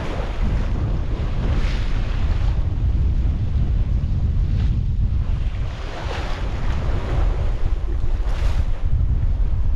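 Wind buffeting the microphone in a heavy steady rumble over rough sea, with waves washing and rushing past a sailboat's hull; the wash swells louder three times.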